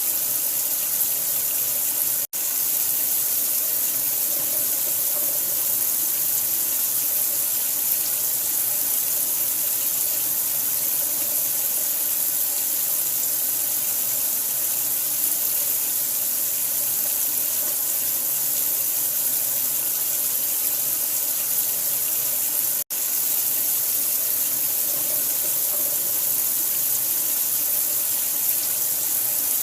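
Steady, even rush of running water, with its hiss strongest in the high end, played as a sleep sound for a newborn. It drops out for a split second twice, a couple of seconds in and again about three quarters of the way through.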